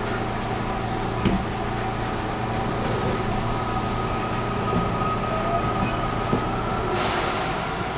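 Inside the car of a JR West 223-1000 series electric train with Mitsubishi IGBT-VVVF traction equipment: steady low motor and equipment hum under a thin whine that climbs slightly. A click comes about a second in, and a short burst of hiss near the end.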